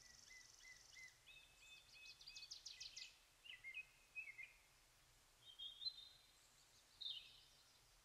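Birds calling faintly: short chirps, a quick run of whistled notes a couple of seconds in, a few more scattered notes, and a falling call near the end. A high buzzing trill stops about a second in.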